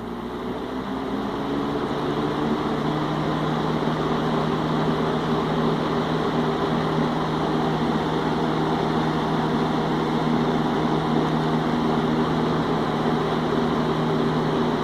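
1970s Hurricane box fan with a Marco motor, switched on at low speed: it spins up over the first couple of seconds, its hum rising in pitch and its air whoosh growing, then runs steadily.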